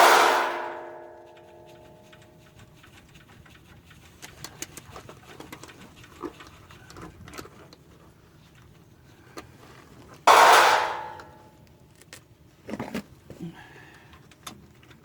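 Metal clattering in a stainless steel chafing pan under a truck. One loud strike at the start rings on for about a second with several tones, and a second loud clatter comes about ten seconds in. Light metallic clicks from hand tools fall between the two.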